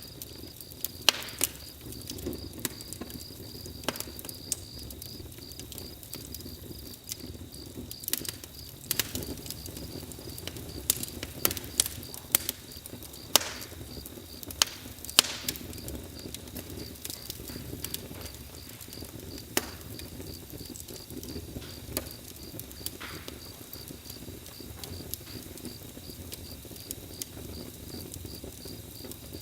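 Campfire crackling: irregular sharp pops and snaps over a low rumble of burning wood. Insects chirp steadily behind it in a fast, even pulse.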